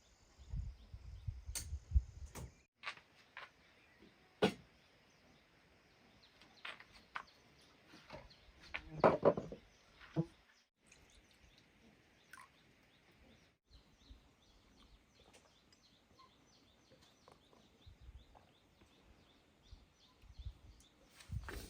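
Scattered sharp knocks and taps of hand work with building materials, with a low rumbling patch in the first couple of seconds and a louder cluster of knocks about nine seconds in.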